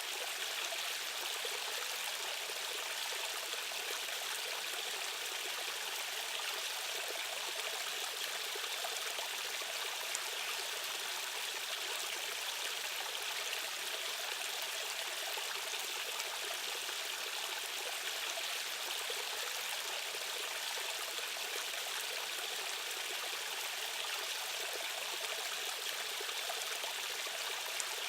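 Fast-flowing stream water rushing steadily, a bright, hissy rush with little low rumble and no change throughout.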